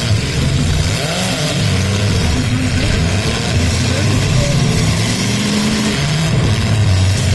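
Several full-size demolition derby cars' engines running and revving at once, their pitches rising and falling against each other in a continuous loud racket.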